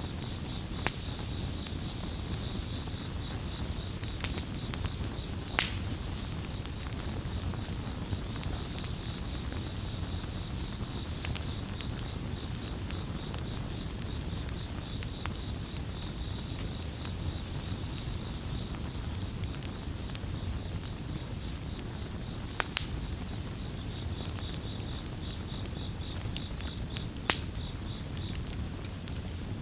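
Campfire crackling, with scattered sharp pops over a steady low background of burning. Crickets chirp in a fast pulsed high trill that drops out for a few seconds past the middle, then comes back.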